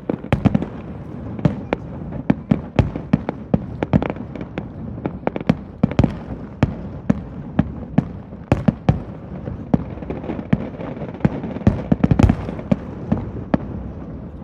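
Fireworks display: a rapid, irregular run of sharp bangs and cracks, several a second, over a continuous low rumble, with a cluster of the loudest bangs about twelve seconds in.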